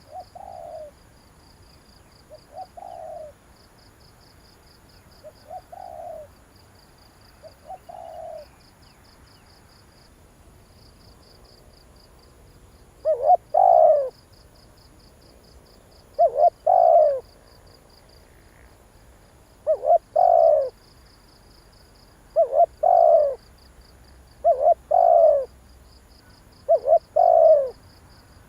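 Spotted dove cooing in repeated short phrases of a few notes each, the kind of call used to lure wild doves. The phrases are soft and spaced in the first third, then come loud about every three seconds from about halfway. A faint, rapid high-pitched chirping runs underneath.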